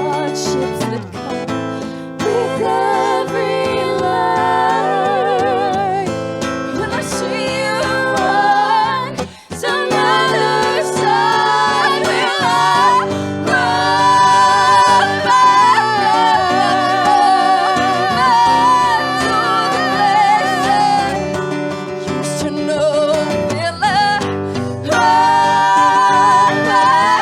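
Live singing with long vibrato notes over a plucked acoustic guitar, with a brief break about nine seconds in.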